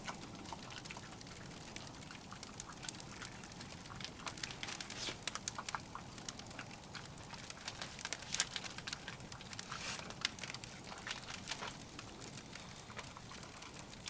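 Firewood burning in a titanium wood stove, crackling and popping irregularly over a low steady hiss.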